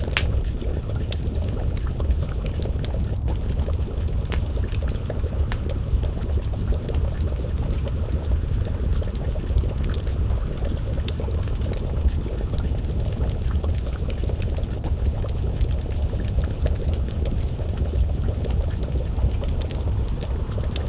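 Wood fire crackling with scattered sharp pops, over a steady low bubbling rumble of a pot of stew simmering over the flames.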